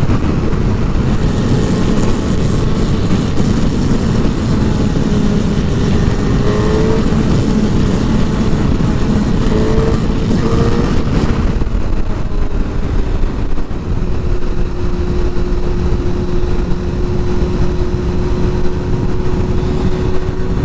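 Sport motorcycle being ridden at speed, with heavy wind rush over the on-bike microphone and the engine note underneath, including a couple of brief rises in pitch. About twelve seconds in, the wind noise eases and the engine settles into a steady hum.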